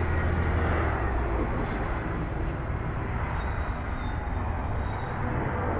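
Jet engine noise from a Southwest Airlines Boeing 737 taking off: a steady low rumble.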